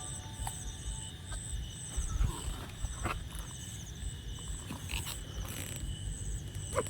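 Forest insects chirping and trilling in an even, repeating rhythm over a low rumble, with a few soft knocks and handling sounds.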